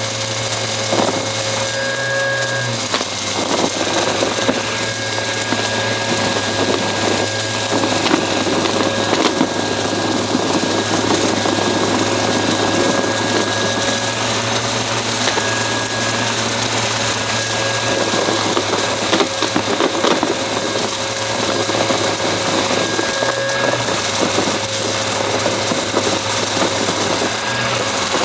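Upright vacuum cleaner running steadily with its motor humming, the pitch shifting briefly a few times as the load changes, and scattered crackles of crunchy debris being sucked up by the brushroll.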